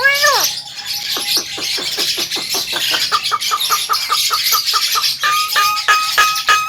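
Javan myna singing: a harsh, arching call, then a fast run of short clipped notes at about seven a second, with a steady whistled note added to the run near the end.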